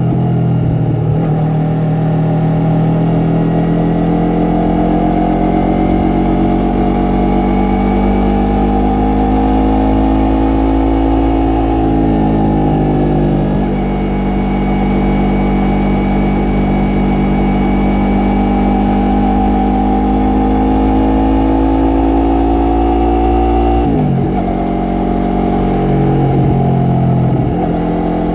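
Yamaha MT-03 parallel-twin engine and exhaust running under way. The engine note rises and falls with the throttle, and the pitch drops sharply a couple of times, once about halfway and once near the end.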